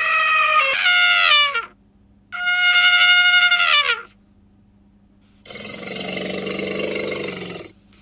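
Elephant trumpeting: two loud, brassy blasts that drop in pitch at their ends, the second starting about two seconds in. About five and a half seconds in comes a lower, harsher rumbling roar that lasts about two seconds.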